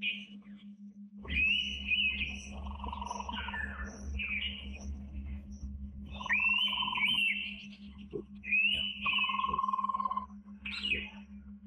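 Indian pitta giving whistled calls: about four phrases, each sliding up into a held, wavering note with a lower steady note alongside. A steady low hum runs underneath.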